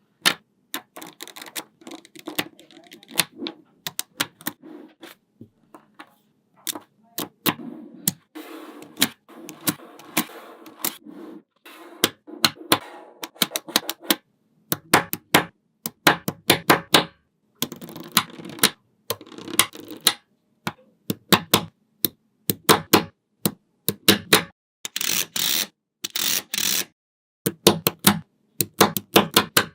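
Small magnetic balls clicking sharply as they snap onto one another, in irregular quick runs of clicks, with a softer rattle between them as the balls are handled and pressed into place.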